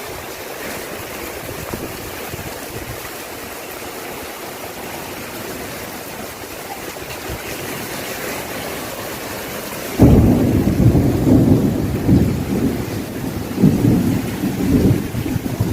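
Steady rain hissing, then about ten seconds in a loud, uneven low rumbling starts suddenly and carries on over the rain.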